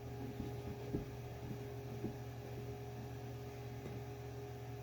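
A steady low hum with a faint steady tone above it, and a few soft clicks about one, two and four seconds in.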